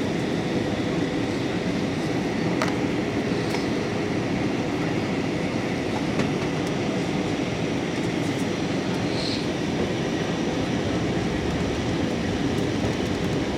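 Steady drone of jet engines and rushing air inside an airliner cabin during the descent to land.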